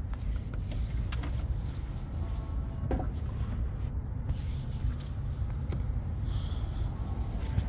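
A 2016 Cadillac SRX's 3.6-litre direct-injection V6 idling steadily, heard as an even low rumble with the hood open. A few faint clicks sound over it.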